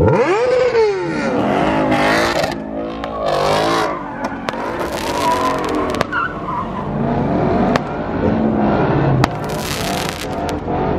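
Ford Mustang doing donuts: the engine revs up and down over and over while the rear tyres squeal, with several sharp firework cracks through it.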